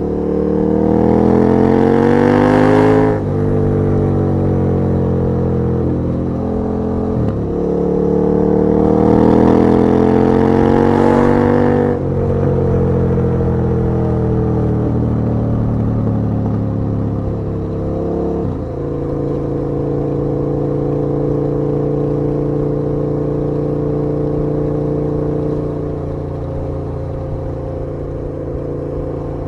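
KTM 1290 R's V-twin engine heard while riding: it revs up, drops sharply at an upshift about three seconds in, and pulls up again through the next gear. It then rolls off with the pitch falling, changes abruptly near two-thirds of the way through, and settles into a steady cruise.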